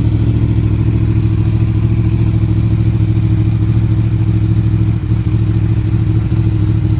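Yamaha R1 sport bike's inline-four engine idling steadily, with a fast even pulse.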